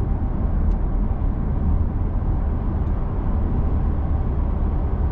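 Steady low road and tyre rumble inside the cabin of a Genesis G80 cruising at motorway speed, with two faint ticks, about a second in and near three seconds.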